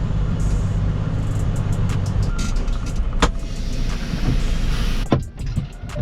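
Semi-truck diesel engine running at low speed while the truck is maneuvered, a steady low drone that eases off about two seconds in, with a few sharp clicks or knocks later on.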